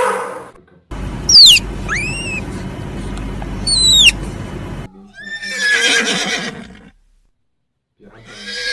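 Two horse whinnies, each a loud wavering neigh, the first about five seconds in and the second starting near the end. Before them, a few sharp high falling calls sound over a steady noisy background.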